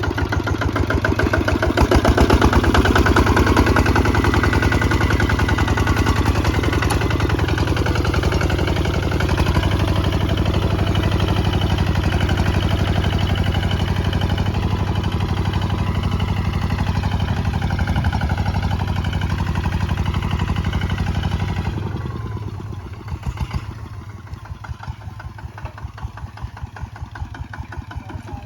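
Kubota ZT 155 DI walking tractor's single-cylinder direct-injection diesel engine running steadily with a fast, even chugging, as when pulling a plow. About three-quarters of the way through it drops back to a quieter, slower idle.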